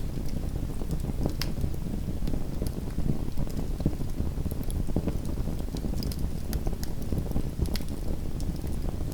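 Small wood fire burning in a fireplace: a steady low rumble of flames with sharp crackles and pops scattered through it, several of them, irregularly spaced.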